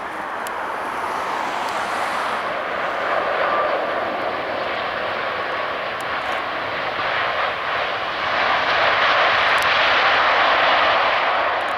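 Airliner's jet engines passing close by: a steady rushing noise that grows louder, is loudest near the end, and then cuts off suddenly.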